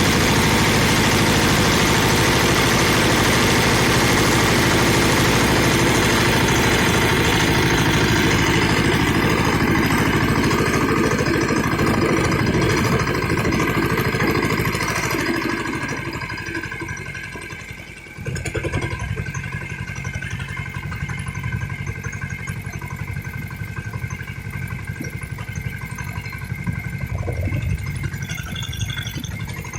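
Tractor engine running steadily while ploughing. It fades away from about halfway through, then comes back abruptly at a lower level and runs on steadily.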